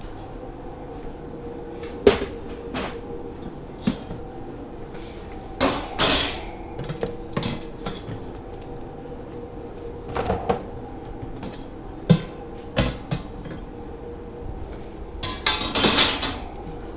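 Kitchen dish pit: irregular knocks and clatters of crockery, pans and racks being handled, over a steady hum of kitchen machinery. The loudest is a rattling clatter of about a second near the end.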